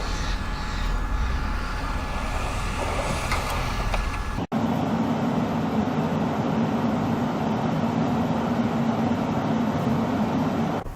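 Motor vehicle engines running in two successive clips: a low rumble, then after a sudden cut about four and a half seconds in, a steady engine hum.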